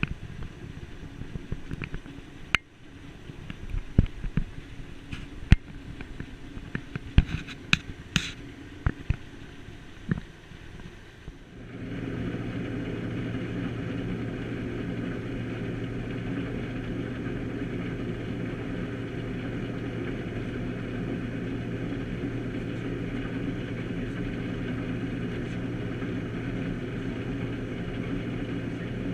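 Case IH 2166 combine harvester: scattered knocks and clicks over a faint hum. About twelve seconds in, a steady, louder machine drone with a strong low hum sets in and holds.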